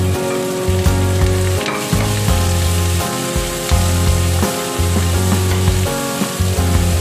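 Chopped onion sizzling in hot oil in a frying pan as a spatula stirs and scrapes it around. Background music with a steady bass line plays throughout.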